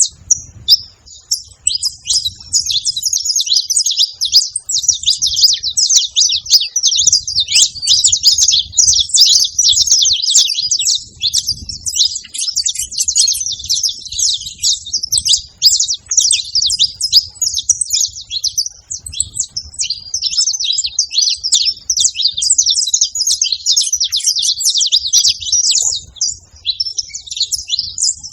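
Saffron finch singing: a long, almost unbroken run of quick, high chirping notes.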